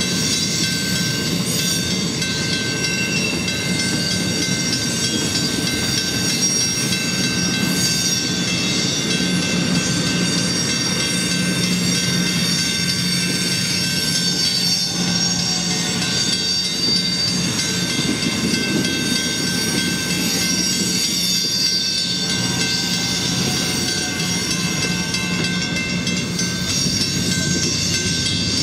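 South Shore Line electric train cars rolling through a grade crossing, with wheels clacking over the rails, while a Western-Cullen-Hayes crossing bell rings steadily.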